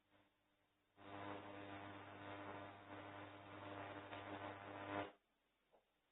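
Microwave-oven transformer switched on for about four seconds: a loud mains buzz with crackling as the high voltage arcs and burns through wood, starting suddenly about a second in and cutting off abruptly.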